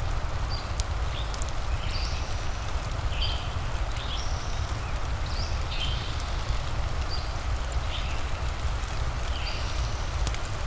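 Steady rain ambience with a deep rumble under it, small birds chirping in short high calls about once a second, and a few faint crackles.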